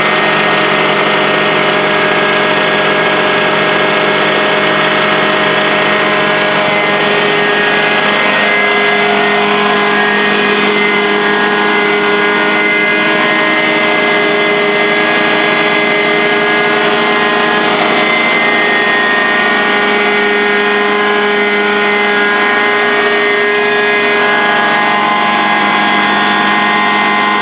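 Truck-mounted carpet cleaning extractor running steadily, its engine and machinery giving a constant drone with a slight shift in pitch about three-quarters of the way through.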